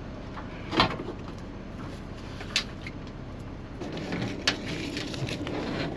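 Handling sounds from tidying up a semi-truck sleeper cab: three short, sharp knocks spaced a couple of seconds apart, with faint movement between them, over a steady low hum.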